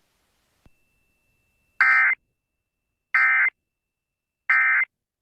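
Emergency Alert System data bursts on a radio broadcast: three short, harsh digital squawks about a second and a half apart. This is the SAME end-of-message code that closes a weather warning.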